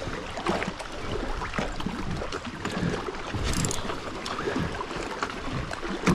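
Small knocks, rubs and water sounds from a plastic fishing kayak as the paddler shifts his weight in it, with a brief hiss about halfway through.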